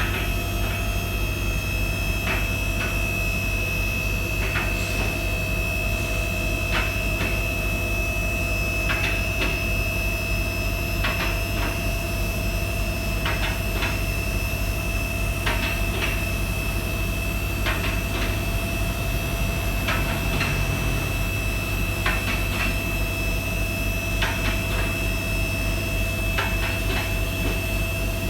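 Steady mechanical hum with a high, even whine, and a click or knock every second or two.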